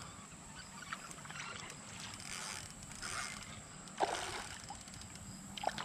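Faint sloshing and splashing of creek water, with a single sharp knock about four seconds in.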